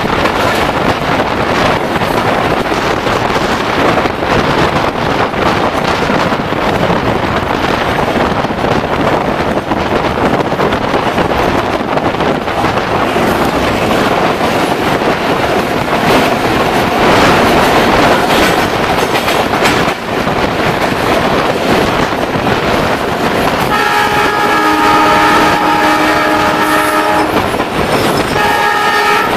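Loud running noise and wheel clatter from a train on the move, with a container train's flatcars rolling past close alongside on the next track. Near the end a train horn with several tones sounds: one long blast of about three seconds, then a short one.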